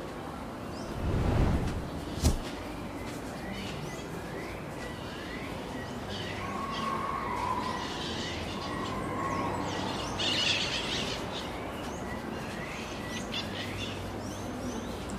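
Birds chirping outdoors in many short, repeated calls. About a second in there is a brief low rumble, followed by a sharp click.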